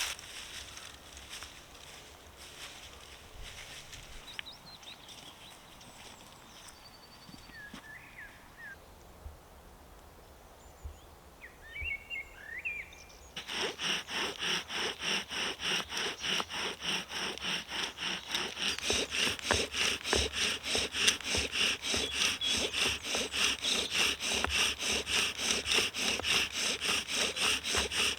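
Birds chirping a few times over a quiet woodland. About halfway through, a tandem bow drill starts up: the bow is sawn back and forth at about three strokes a second, spinning the wooden spindle in the hearth board with an even, rhythmic rubbing as it works up towards an ember.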